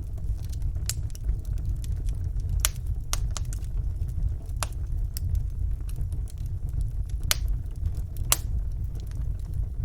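Wood fire burning in a fireplace: a steady low rumble of the flames with scattered sharp crackles and pops, a few louder ones, the sharpest about eight seconds in.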